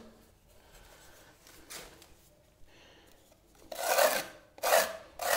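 Plastering trowel scraping across drying travertine decorative plaster as it is compacted. It is faint at first, then comes three quick rasping strokes in the last two seconds.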